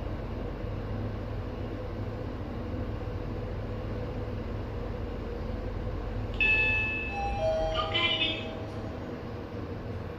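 Otis passenger elevator car travelling with a steady low hum, which drops away about eight seconds in as the car stops. Just before that an electronic arrival chime sounds, a bright tone followed by several lower tones stepping down over about two seconds.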